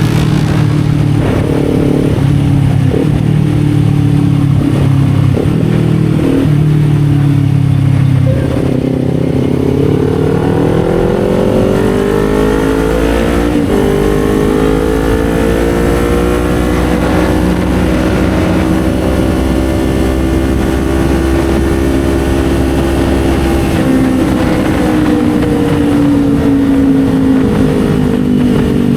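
Kawasaki Z400's parallel-twin engine pulling along at a steady pitch, then about eight seconds in the revs dip and climb smoothly into a long high-rev pull that holds, easing slightly near the end.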